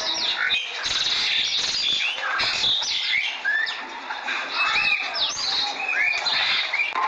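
Many small birds chirping: dense, overlapping short chirps with quick rising and falling pitch.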